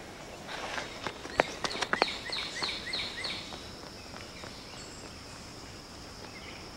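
Rural outdoor ambience: a bird calls a quick series of about six chirps a couple of seconds in, over a steady high insect-like tone and hiss, with a few sharp clicks.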